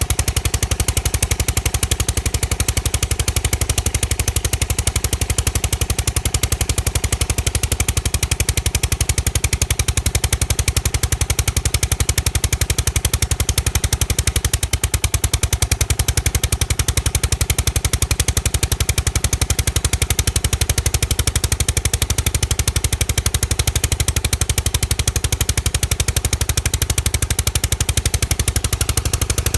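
John Deere 14SE riding mower's Kawasaki engine running steadily with a rapid, even, hammering pulse. This is the abnormal running the owner cannot explain.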